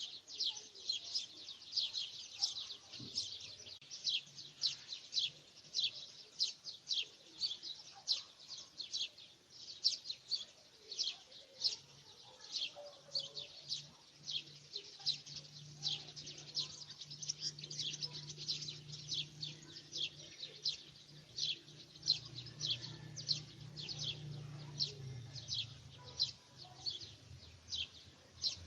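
Small birds chirping continuously in short, high chirps, about two to three a second.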